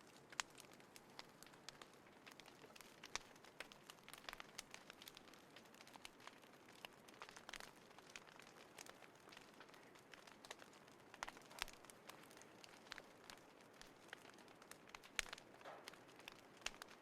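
Small fire in a compact folding fire pit, crackling softly: irregular snaps and pops over a faint hiss, with a few sharper pops.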